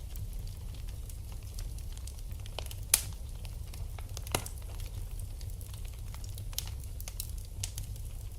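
Wood fire burning in a fireplace: a steady low rumble with frequent small crackles, and two sharper pops about three seconds and four and a half seconds in.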